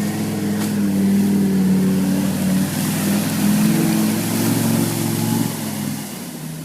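Converted UAZ's Mercedes OM617 3.0 five-cylinder diesel running hard under load off-road, then fading away about five and a half seconds in.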